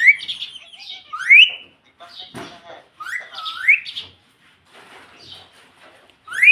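Ringneck parrot making several short whistled calls that rise in pitch, with softer chatter and clicks in between.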